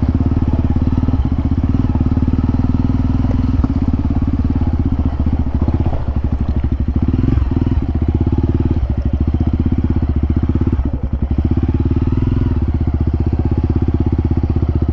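Single-cylinder trail motorcycle engine running steadily, with a brief dip in level about eleven seconds in.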